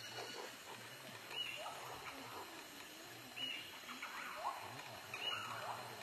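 Bird calls: short chirps repeating every second or two, some high and arching, others quick rising notes, over a faint low hum.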